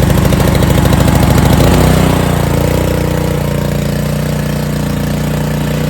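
Honda GCV160 single-cylinder engine on a Ryobi pressure washer running just after being pull-started, its carburetor freshly cleaned of a plugged main jet. It runs hard at first, then settles to a steadier, slightly quieter note about two seconds in.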